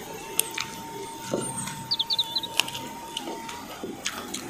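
Close-up eating sounds: chewing and smacking, with scattered sharp clicks from the mouth and hands. A bird chirps a quick run of short high notes about two seconds in, over a faint steady tone.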